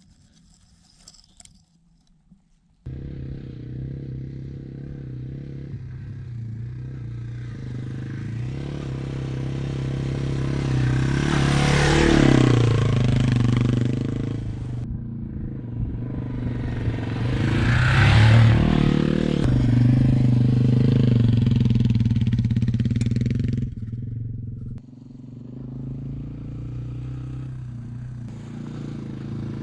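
Small single-cylinder four-stroke dual-sport motorcycle engines running, starting abruptly about three seconds in. The sound swells twice to loud surges, about twelve and eighteen seconds in, then falls back, with a brief drop in level near the end.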